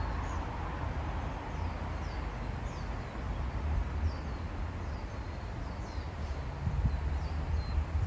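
Small birds calling: short, high chirps that sweep downward, repeated about once a second, over a steady low rumble, with a few low thumps near the end.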